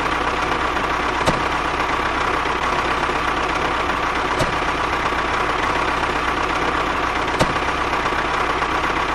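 Engine idling steadily, with a faint tick about every three seconds.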